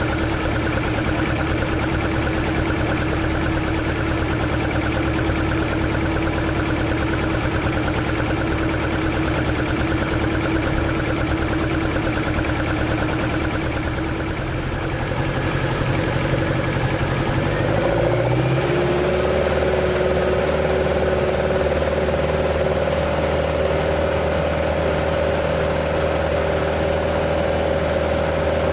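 AE86's swapped AE101 4A-GE 20-valve engine idling steadily. About 18 seconds in, the idle rises to a slightly higher speed and holds there, with a new steady tone joining the engine note.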